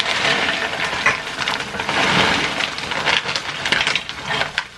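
Cheese frying in oil in a pan, sizzling and crackling, with a run of small clicks and clatter, easing off near the end.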